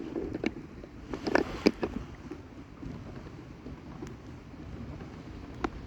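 Kayak paddling: a few short knocks and splashes from the paddle over low wind rumble on the microphone.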